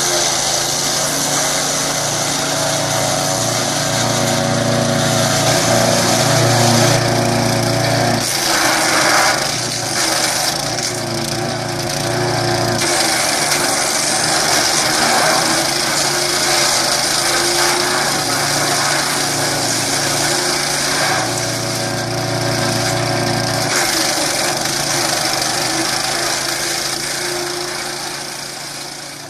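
A TERMIT Q65 drum wood chipper running on its combustion engine and chipping branches. The steady engine note carries a harsh noise of shredding wood, and the engine's pitch shifts a few times as the load changes.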